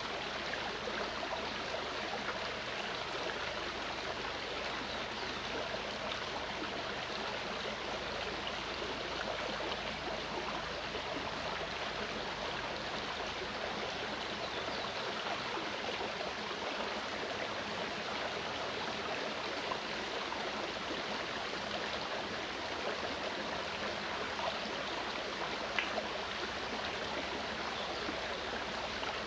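Clear mountain stream flowing over rocks: a steady, even rush of running water.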